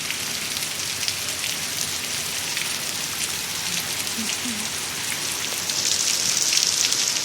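Rain falling steadily, with many separate drops ticking, growing louder about six seconds in.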